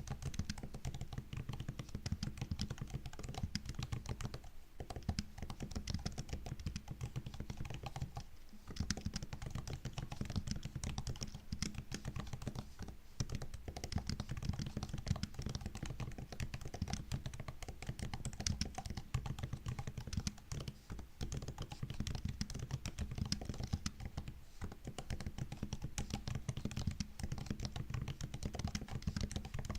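Steady typing on a MacBook's built-in keyboard: a dense run of quick key clicks and taps, broken by a few short pauses.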